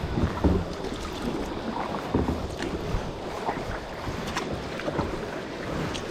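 Kayak paddling on a river: irregular splashes and drips of the paddle blades in the water, with wind buffeting the microphone.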